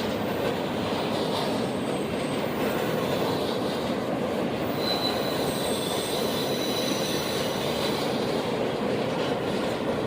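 Railroad cars rolling steadily past on the rails, a continuous rumble of wheels on track. Faint high-pitched wheel squeals come in about halfway through.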